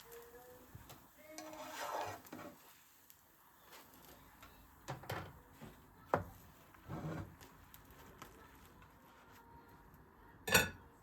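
Kitchenware being handled: dishes and utensils knocking and clinking in a few separate clatters, with the loudest clack near the end.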